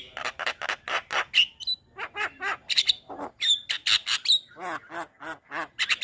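Javan myna (jalak kebo) singing a rapid, unbroken run of short harsh chattering notes and squawks, with a few clear whistled notes mixed in.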